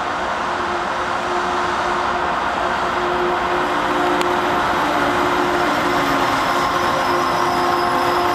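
A train running by on the rails: steady rolling noise with several held whining tones, growing slightly louder.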